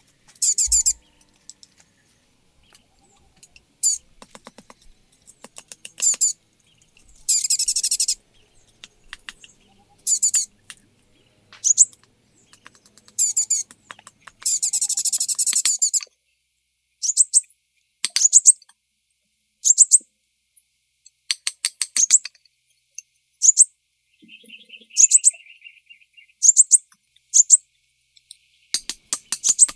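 Small birds calling: short high-pitched rising chirps every second or two, with a few longer rapid trills.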